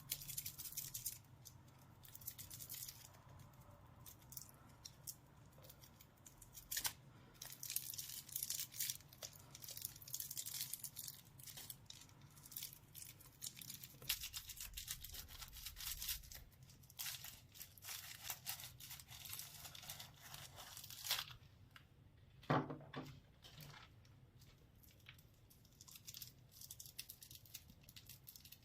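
Plastic lollipop wrappers being torn and crinkled open, a run of crackling rustles in bursts with a sharper snap about two-thirds of the way through.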